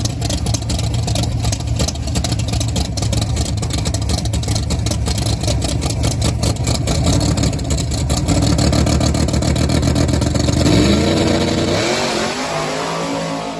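Black first-generation Camaro drag car's engine running at a steady, pulsing idle. About eleven seconds in it revs up, the pitch climbing, as the car pulls off.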